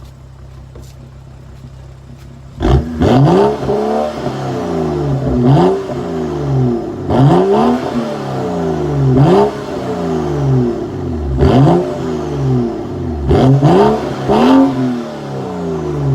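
BMW F10 535i's turbocharged inline-six, with a muffler-deleted straight 3-inch exhaust, idling steadily, then about three seconds in revved hard again and again, each rev rising sharply and falling back, roughly every two seconds.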